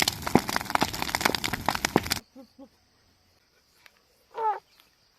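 Dense crackling and snapping with many sharp clicks, cut off suddenly about two seconds in. Then a steady high insect drone, with one short wavering animal call that falls in pitch near the end.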